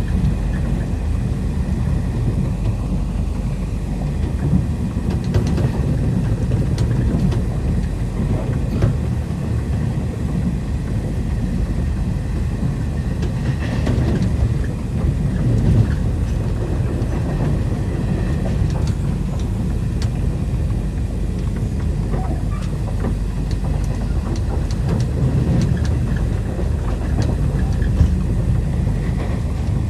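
Intercity Express passenger train running along the track: a steady low rumble of the moving coaches with scattered faint clicks.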